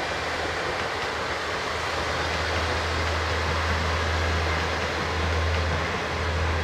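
A diesel train running with a steady low engine drone over a wash of running noise, growing louder about two seconds in.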